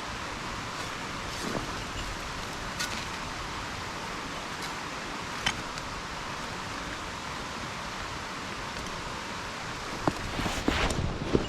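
Steady rushing of a mountain stream, with a few sharp clicks. Near the end come irregular footsteps and rustling through undergrowth.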